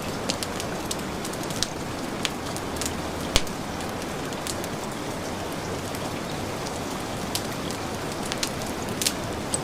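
Heavy rain falling as a steady hiss, with a wood fire crackling over it in sharp, irregular pops; the loudest pop comes about a third of the way in.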